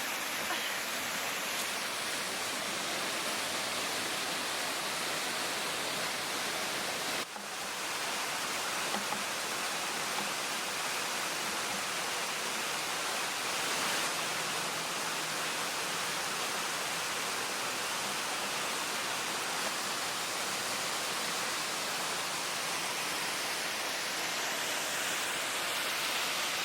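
Waterfall rushing, a steady even wash of falling water, broken once by a brief dip about seven seconds in.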